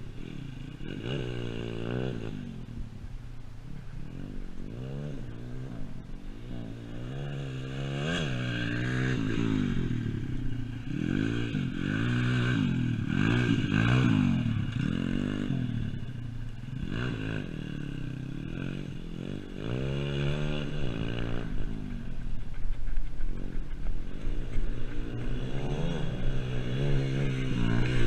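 Pit bike engine revving up and down over and over as it is ridden round the track, its pitch rising and falling every second or two.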